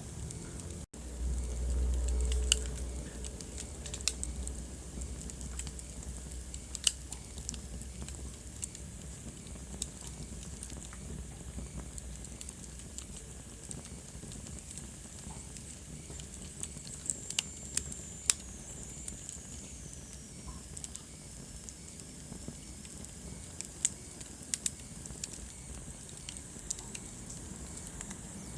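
Wood fire burning in a fireplace, crackling: scattered sharp pops and snaps over a steady hiss. A low rumble swells for a couple of seconds near the start and is the loudest part, and a faint high whistle slowly falls in pitch around the middle.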